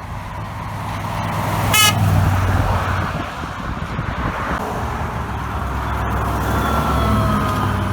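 Heavy truck passing on the highway with a steady diesel drone and road noise, and a short horn blast about two seconds in.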